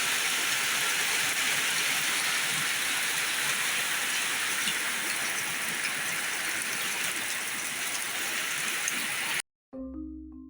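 Heavy rain pouring steadily, cut off abruptly near the end, followed by a few pitched mallet-percussion notes of music like a vibraphone or marimba.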